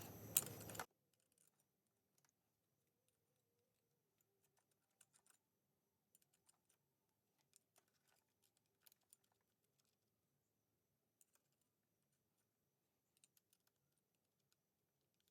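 Near silence with faint, scattered light clicks of clutch plates being set one by one into a motorcycle clutch basket. A low room hiss in the first second cuts off suddenly.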